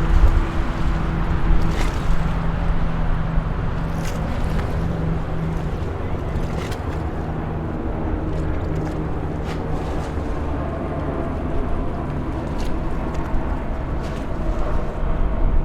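Highway traffic ambience: a steady low rumble of vehicles with a held engine hum, and a few faint clicks.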